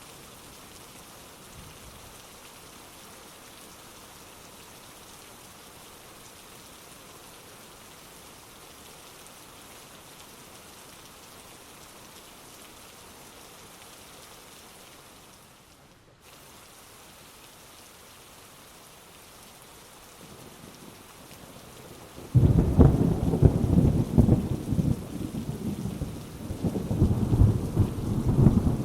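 Heavy rain falling with a steady hiss. About three quarters of the way through, a loud roll of thunder breaks in and keeps rumbling and surging to the end.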